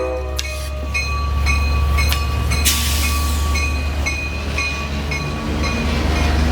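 Amtrak passenger train passing close by, a heavy steady low rumble of the train going by. A short, high ringing tone repeats about twice a second over it, and there is a brief hiss about three seconds in.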